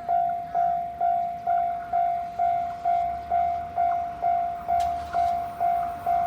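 Railway level-crossing warning bell ringing at an even pace, about two strikes a second: the signal that a train is approaching the crossing.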